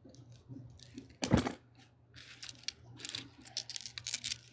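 Light metallic clicks and clinks of a socket and hand tools being handled, with one louder knock about a second in.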